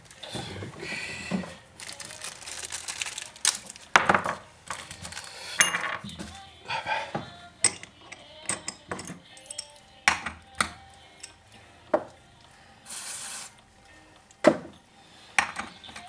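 Hand tools and small metal parts clinking, knocking and clattering on a workbench, in irregular sharp clicks. About thirteen seconds in there is a short hiss.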